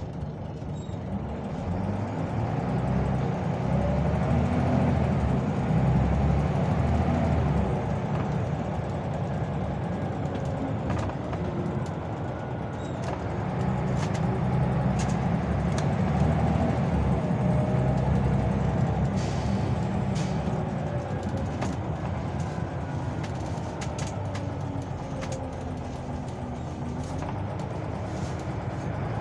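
Scania OmniLink CL94UB city bus engine running under load, growing louder as the bus accelerates, easing off, then pulling harder again about halfway through. Light clicks and rattles come through in the second half.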